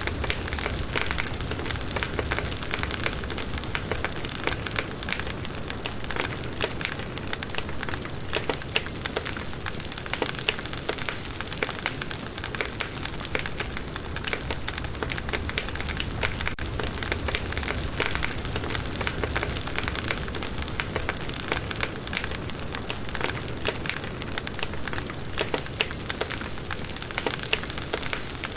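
Firewood burning in a campfire, crackling steadily with many small snaps over a constant hiss of flame.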